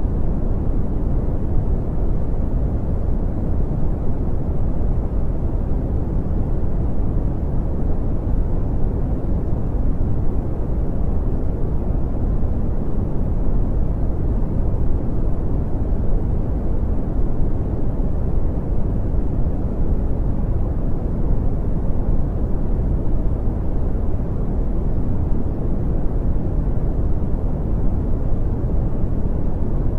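Brown noise: a steady, deep rumbling hiss with most of its energy in the bass, fading off in the treble, unchanging throughout.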